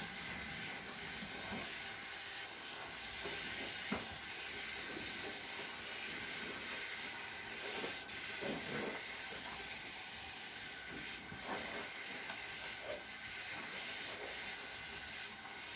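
Soapy cleaning sponge squishing against a surface, with a few short squelches at irregular moments over a steady hiss.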